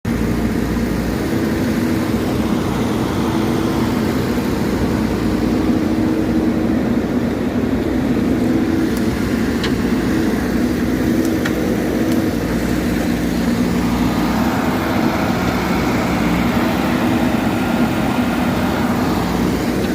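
Diesel engine of a backhoe loader running steadily at work, its note shifting and growing busier for a few seconds from about two-thirds of the way in, as if under heavier load.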